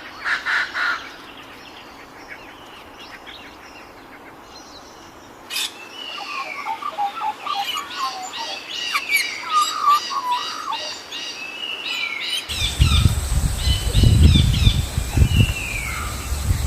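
Wild birds chirping and singing, several calling at once, in busy overlapping trills and short calls. A louder burst of calls opens, it goes quieter, then livens up about five seconds in, and a low rumbling noise joins the birdsong about two-thirds of the way through.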